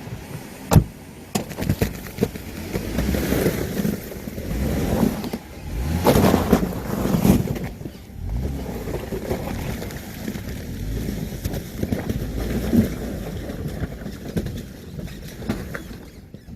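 A Jeep Gladiator pickup working its way over rocks in a stream bed after being jacked free of a rock. There are irregular knocks and clunks over a rumbling noise, with a sharp knock about a second in and louder stretches in the middle.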